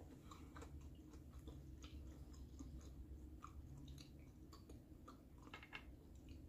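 Faint close-up chewing: soft, scattered mouth clicks and smacks from someone eating with their mouth closed.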